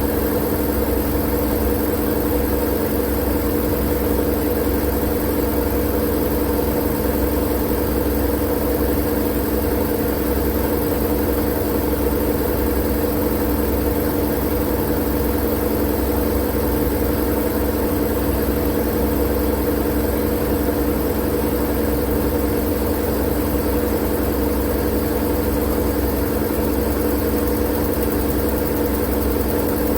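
Steady, unchanging white-noise drone with a low hum running under it.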